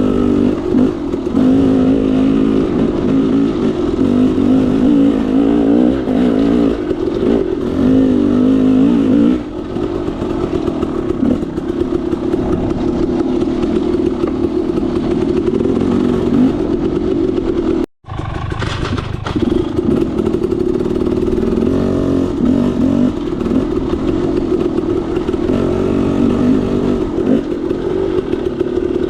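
KTM 300 XC-W two-stroke dirt bike engine, revving up and down in the first third, then running steadier at lower revs. The sound cuts out for a split second about two-thirds through, then the engine carries on.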